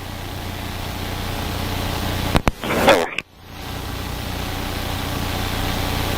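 Steady drone of a police helicopter's engine and rotor heard over the crew's radio mic. Midway there are a couple of clicks and a brief burst of radio voice, after which the drone cuts out and fades back in.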